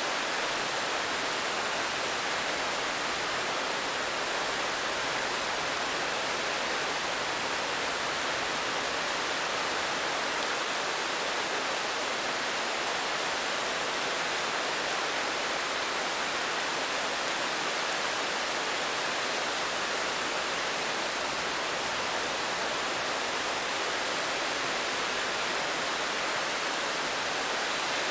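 Steady, even rain hiss with no separate drops, thunder or other events standing out.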